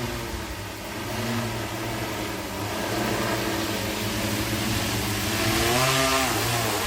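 Eight-rotor agricultural spraying drone in flight, its rotors giving a steady whining hum over a rushing hiss. Near the end the hum grows louder and its pitch rises and then falls.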